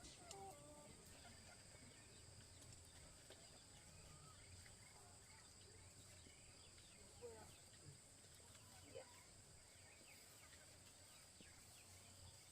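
Near silence: faint forest ambience, with a steady high-pitched insect drone and a few faint scattered chirps.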